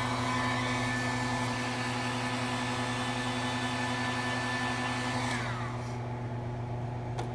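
Electric heat gun blowing hot air with a steady motor whine, shrinking adhesive-lined heat-shrink tubing; about five seconds in it is switched off and the whine falls away as the fan spins down, followed by a sharp click near the end.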